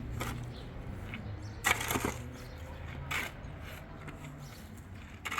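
A few sharp knocks or cracks, the loudest about two seconds in and another about a second later, over a low steady hum.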